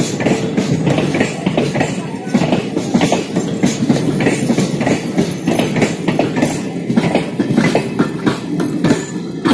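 Indian Railways passenger coaches rolling past at close range: a steady rumble of wheels on rails, with repeated clacking as the wheels cross rail joints.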